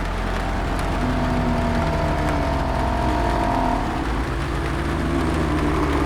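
Layered horror ambience: a steady low rumble and hiss, with long drawn-out moans from about half a second in until about four seconds, then fresh moans near the end.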